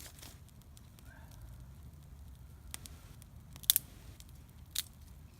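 Small newly lit wood fire burning with a few sharp crackling pops, the loudest about halfway through.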